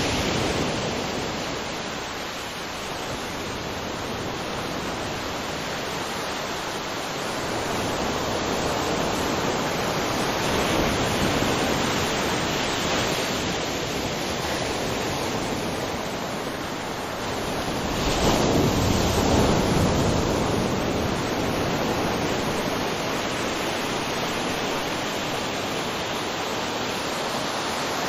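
Waterfall: a steady rush of falling water that swells and eases slowly, loudest about eighteen seconds in.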